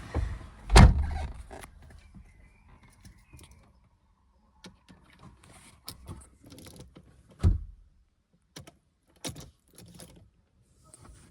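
Handling sounds at a Mercedes-Benz 190D with the engine not yet running: a heavy thud about a second in and another past the middle, with keys jangling and small clicks and rattles between them.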